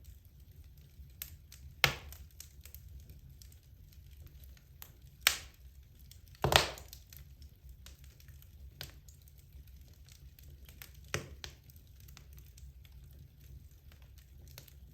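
Wood logs burning in a fireplace: a steady scatter of small crackles with four sharp pops, the loudest about halfway through, over a low steady rumble.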